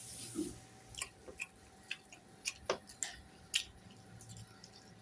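A person eating close to the microphone: scattered short wet clicks and smacks of chewing, about eight over a few seconds.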